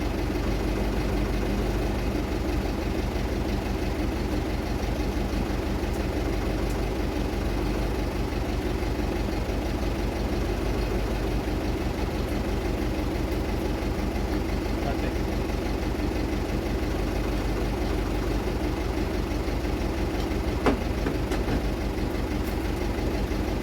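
A diesel engine idling steadily, its firing pulse even, with one sharp click near the end.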